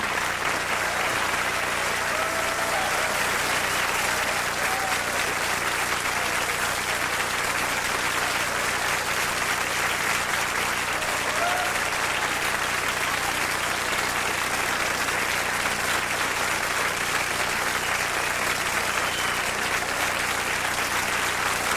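Concert audience applauding steadily, with a few brief shouts or whistles rising above it.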